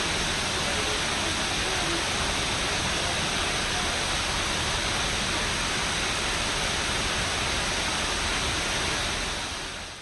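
Steady rush of water falling from the 45 m man-made Khorfakkan waterfall, carved from natural rock, fading away near the end.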